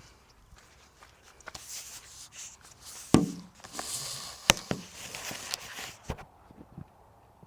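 Footsteps and rustling, with two sharp knocks about three and four and a half seconds in.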